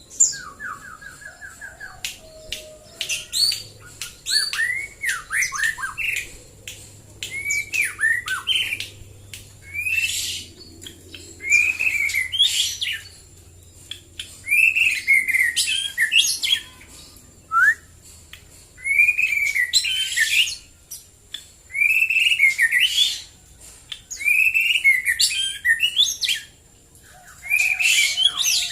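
White-rumped shama singing. Its varied whistled phrases and a quick trill come first, then a loud, similar phrase is repeated every two to three seconds.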